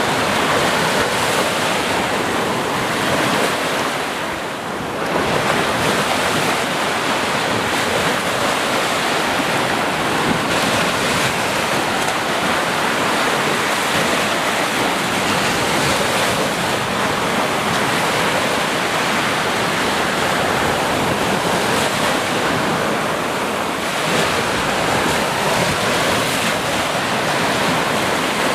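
Ocean surf: a continuous rush of breaking waves, dipping briefly about five seconds in and again near the end.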